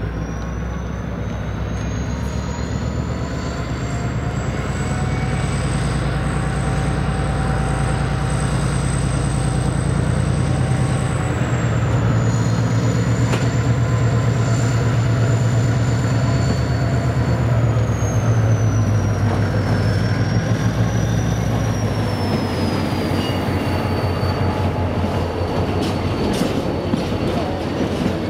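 Irish Rail 071 Class diesel locomotive's EMD two-stroke engine running as it hauls a rake of ore wagons slowly past, getting louder as it nears. A high-pitched wheel squeal from the curved track and points rises over the first few seconds, holds, then slowly falls in pitch.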